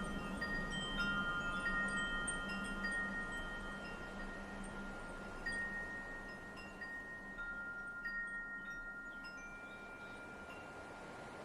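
Wind chimes ringing in a light wind: a few long, sustained tones struck now and then, slowly dying away, over a soft rush of wind.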